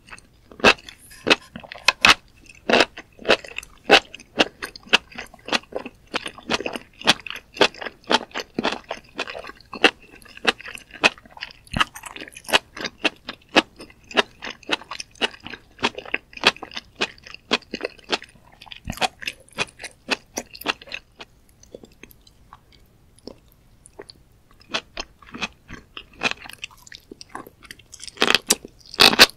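Close-miked chewing of sauce-coated mushrooms: quick, crisp, wet clicks from each chew, coming thick and fast. About two-thirds of the way in the chewing thins out and goes quiet, and near the end a fresh mouthful of enoki mushrooms is bitten into.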